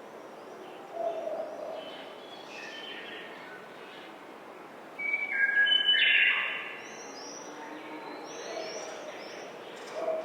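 Several birds chirping and calling over faint outdoor background noise, with one louder run of stepped notes about five seconds in, followed by a series of short high chirps.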